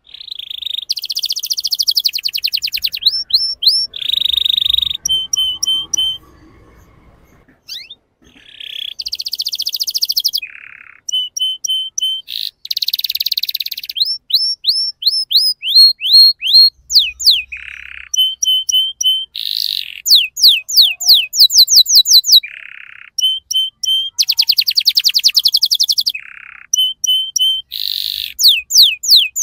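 Domestic canary singing a long, varied song: fast rattling trills, runs of repeated notes and quick downward-sweeping whistles, phrase after phrase with short pauses between.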